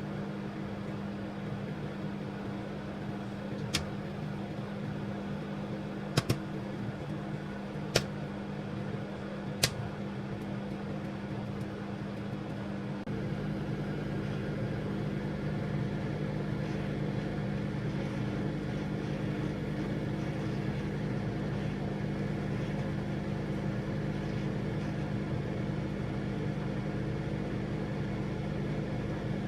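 Microwave oven running with a steady electrical hum, with a few sharp clicks in the first ten seconds. About halfway through, the hum gets louder and deeper and then stays steady.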